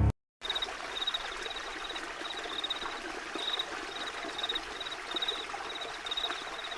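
Running stream water with an insect chirping over it in short, high, same-pitched pulses about twice a second.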